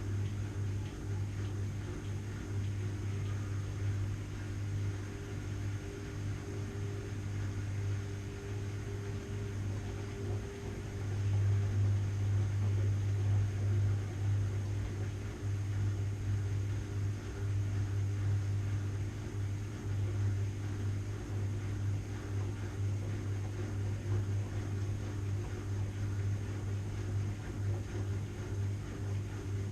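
Washing machine running with a steady low hum, growing somewhat louder about eleven seconds in.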